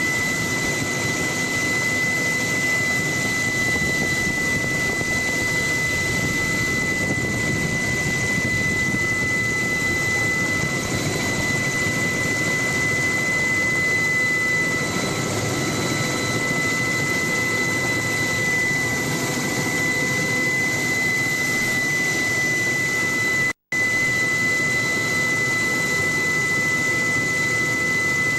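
Steady helicopter noise heard from aboard: a constant high turbine whine over an even rushing engine and rotor noise. The sound drops out for an instant near the end.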